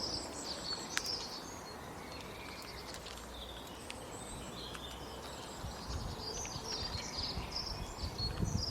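Small birds chirping in short repeated calls over a steady outdoor hiss, with a sharp click about a second in. Low rumbling thumps come in during the second half.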